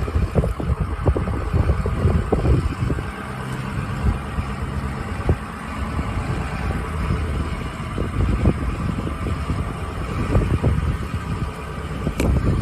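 Motor vehicle engine running steadily, with frequent short knocks and rattles throughout and a louder knock near the end.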